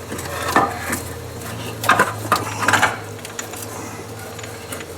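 Irregular knocks and clinks from a replacement inner CVT housing being worked into place past wires and hoses, several sharp hits about two to three seconds in.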